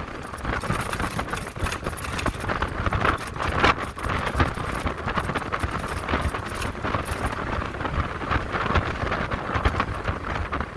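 Wind rushing and buffeting over a helmet-mounted microphone while riding an electric motorcycle, with road noise and a dense crackle that stops about seven seconds in.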